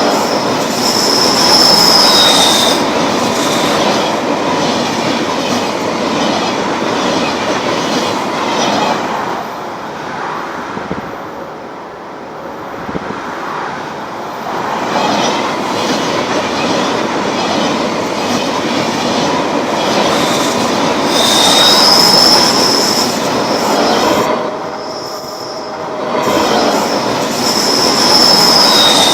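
Train rolling along the rails, its wheels clattering over the joints, with short high-pitched wheel squeals near the start and twice near the end. The running noise eases off twice along the way before building again.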